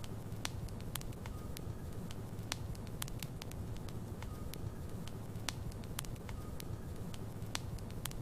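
Wood logs burning in a fireplace: a steady low rumble under irregular sharp crackles and pops, a few each second.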